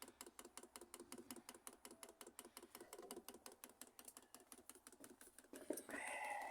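Chinese diesel heater's fuel dosing pump clicking rapidly and evenly, several clicks a second, as it primes the fuel line with diesel. A brief louder noise comes near the end.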